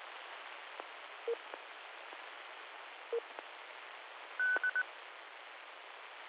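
Amateur radio receiver audio with no one talking: a steady static hiss, broken by two short low beeps and then, about four and a half seconds in, a higher beep of one long and two short tones.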